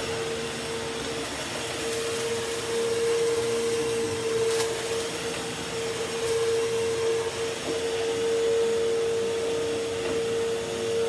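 Bissell CleanView vacuum cleaner running steadily, its motor giving one even whine over a rushing hiss of suction.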